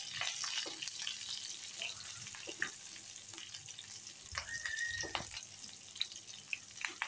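Potato cubes sizzling in hot oil in a nonstick pan, stirred with a silicone spatula, with small scraping and tapping sounds. A brief high squeak about halfway through.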